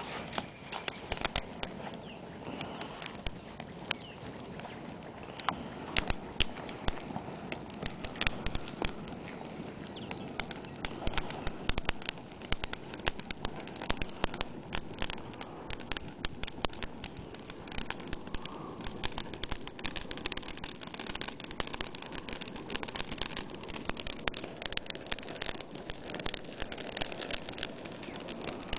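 Bonfire of dry Paraná pine branches (grimpa) burning, with dense, irregular crackling and popping over a steady rush of flame.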